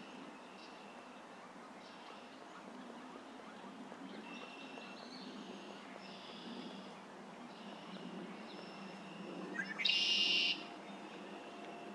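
Wild bird calls: a series of faint, drawn-out high calls, then a brief rising note and a much louder call lasting about half a second, around ten seconds in.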